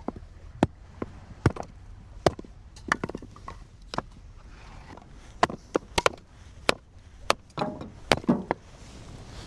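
Chopping: sharp, irregular strikes about one or two a second, with a quicker rattling run of knocks near the end.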